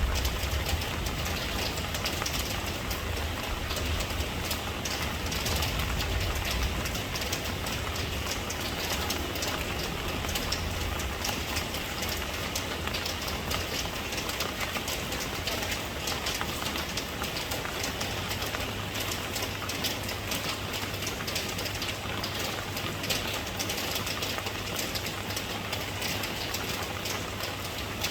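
Steady rain falling, a continuous hiss with fine patter. A deep low rumble sits under it, strongest in roughly the first ten seconds, then settles into a faint steady low drone.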